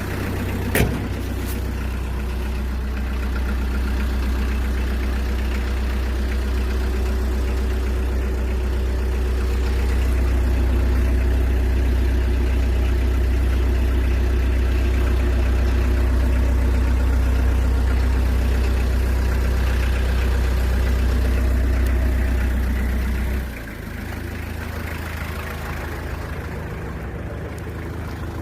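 2001 Hyundai Porter's diesel engine idling steadily, with a sharp click about a second in. About five seconds before the end the deep hum suddenly drops in level and carries on quieter.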